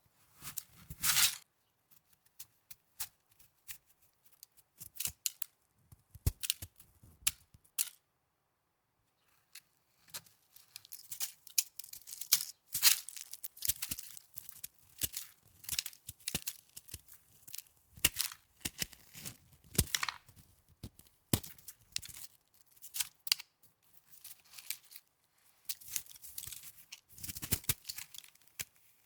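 Snow handled close to the microphone, crunching and crackling in irregular bursts. There is a loud burst about a second in, a brief pause near the middle, and then busier crunching.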